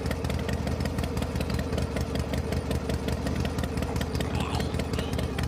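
Steady engine-like running sound, like an idling motor with a fast even clatter, from a toy tractor.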